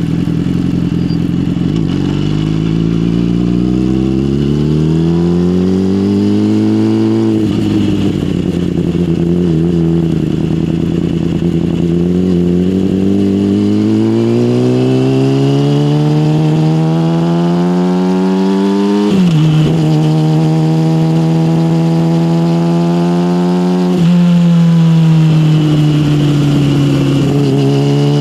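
Yamaha motorcycle engine through an SC Project aftermarket exhaust, accelerating up through the gears. The engine pitch climbs, drops sharply at gear changes about seven and nineteen seconds in, changes again briefly near twenty-four seconds, then eases off.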